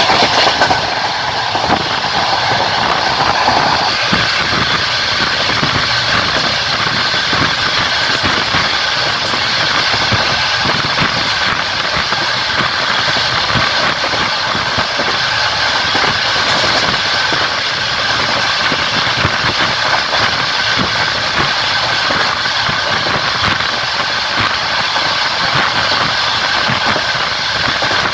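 Passenger train running along the line: steady rolling noise of wheels on rails, with a higher tone over the first four seconds that then stops.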